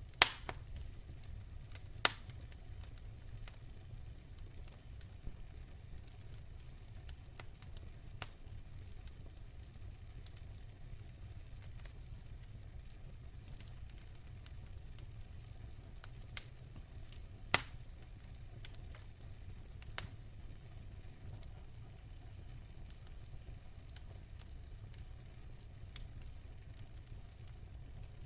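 Campfire burning with a steady low rumble and a soft hiss, broken by scattered sharp crackles and pops from the burning wood; the loudest pops come near the start, about two seconds in, and about two-thirds of the way through.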